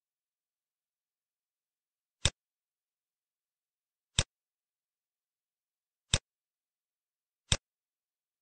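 Four single computer mouse clicks, sharp and short, about two seconds apart, the last one coming a little sooner.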